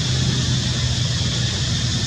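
Steady outdoor background noise: a low, even rumble under a constant hiss, with no distinct events.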